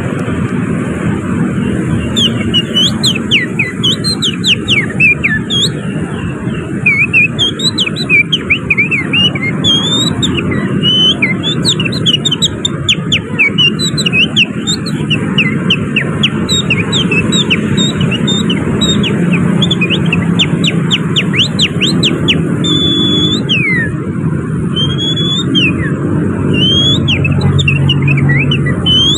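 Oriental magpie-robin (kacer) song imitated by a man whistling through his fingers and hands: a long run of fast chirps, trills and up-and-down whistled glides, over a steady low rumble of city traffic.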